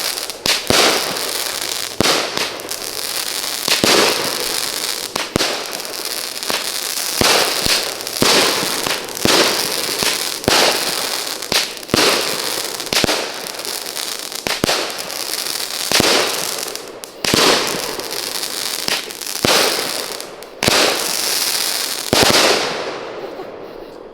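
19-shot consumer firework cake firing: loud bangs about once a second, each shot breaking low, with crackling noise filling the gaps. The barrage stops shortly before the end.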